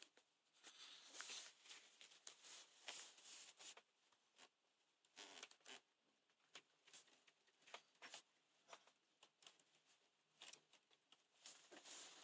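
Faint, irregular rustling and light clicks close to the microphone, like fabric or objects being handled.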